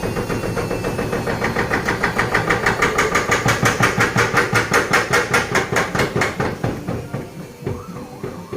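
Front-loading washing machine drum knocking rhythmically as it spins, the knocks speeding up to about eight a second and then dying away after about six seconds. It is the clatter that marks a broken drum spider (tripod).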